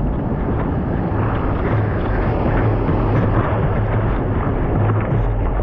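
Steady rumble of wind on the microphone over the wash of ocean surf, with no breaks.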